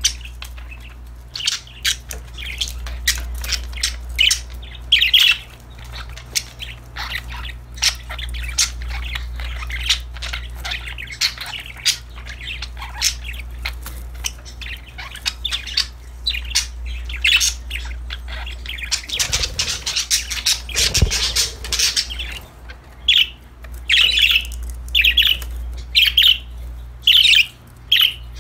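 Pet budgerigars chirping and squawking in many short, overlapping calls. There is a brief burst of rustling noise about two-thirds of the way through, and a run of regular squawks near the end, over a steady low hum.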